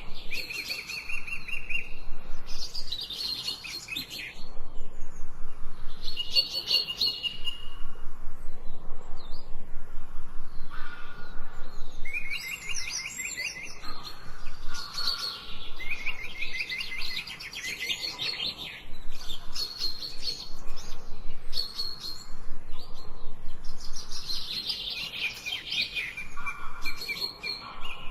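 Songbirds singing: phrases of fast, rapidly repeated trills and chirps, each lasting a few seconds, with more than one bird overlapping.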